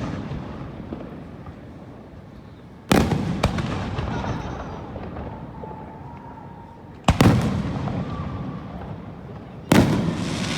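Aerial fireworks shells bursting overhead: three loud booms about three to four seconds apart, each followed by a rumble that fades away.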